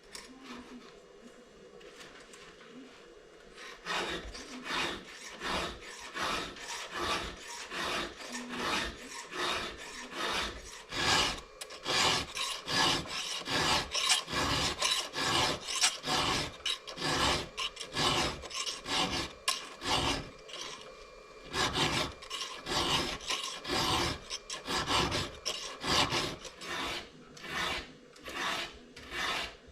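Hand file scraping across the cutters of a Stihl MS 462 C chainsaw chain in repeated strokes, about one and a half a second, starting about four seconds in with a brief pause later on: sharpening teeth that were damaged by hitting rocks.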